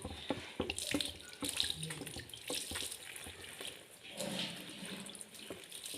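Water running and splashing, with irregular small splashes and drips.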